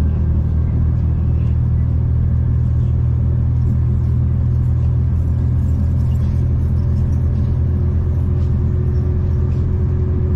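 Steady low rumble of a V/Line passenger train running along the line, heard from inside the carriage. A faint steady hum joins near the end.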